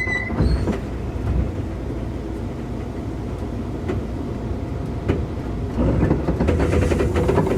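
Running noise heard inside a Keikyu 2000 series commuter train car: a steady low rumble with occasional clicks of the wheels over rail joints. About six seconds in, the sound grows louder.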